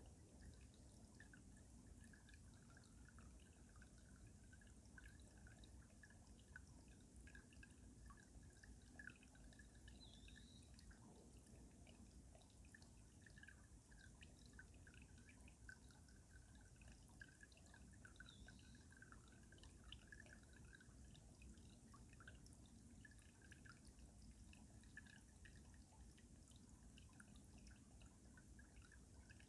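Faint stream water trickling and gurgling beneath ice, with steady small drips and bubbling.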